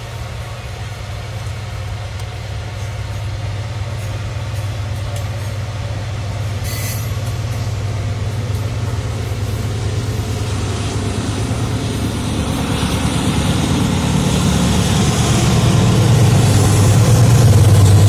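Heavy iron-ore freight train hauled by GE diesel-electric locomotives: a steady low engine hum and rolling rail noise that grows steadily louder. A brief sharp click about seven seconds in.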